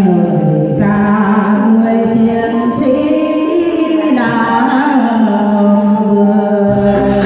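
Song with a singing voice over instrumental accompaniment; a deeper bass part comes in near the end.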